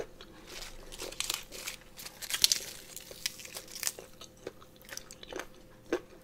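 Close-up chewing of crunchy food in the mouth: a run of wet crunches and small clicks, busiest and loudest about two and a half seconds in.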